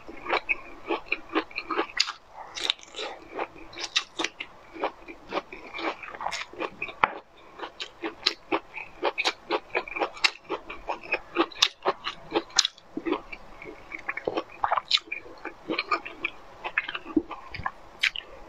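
A person chewing close to a clip-on microphone: rapid wet mouth clicks and soft crunches, several a second, as she eats raw broccoli and fruit.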